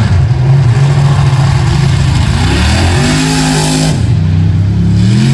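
Off-road race truck engine revving hard under acceleration; its pitch climbs steeply, holds at high revs, and drops sharply about four seconds in.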